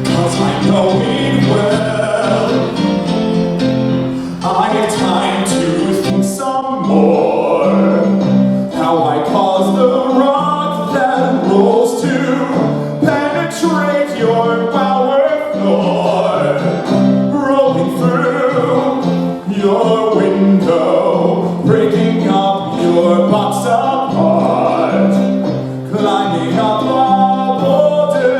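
A song from a live stage musical: a voice singing over instrumental accompaniment, with a low bass line moving in steady steps.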